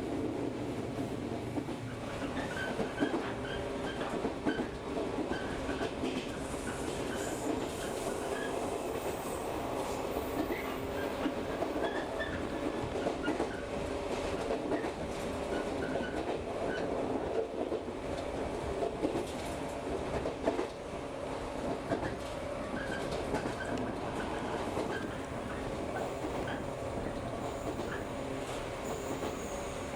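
Local train running along the track, heard from inside the carriage: steady running noise with wheels clicking over rail joints and light scattered squeaks.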